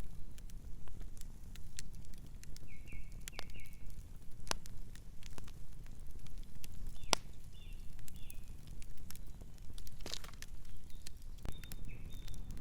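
Campfire crackling, with frequent sharp pops and snaps of burning wood over a steady low rumble. Short high bird chirps come three times: a few seconds in, in the middle and near the end.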